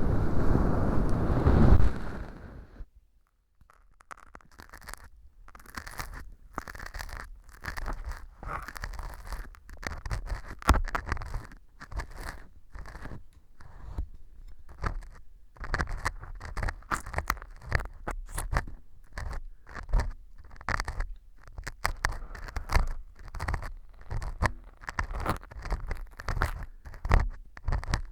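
Ear pick scraping and scratching at dried wheat gluten (fu) glued as fake earwax inside a transparent ear model, in irregular dry crunchy strokes. The glue has set the fu hard, so the strokes grate. Before this, a loud low rumble cuts off about two and a half seconds in.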